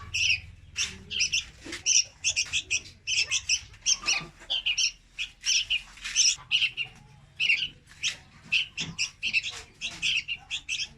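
Young red-whiskered bulbuls calling: short, high chirps in quick clusters of several a second, with brief pauses between the clusters.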